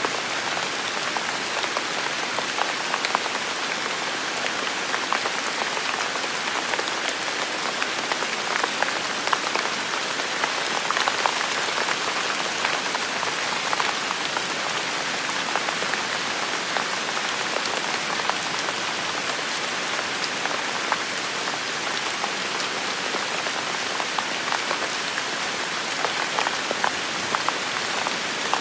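Heavy rain falling steadily, a dense even hiss with many separate drops ticking through it.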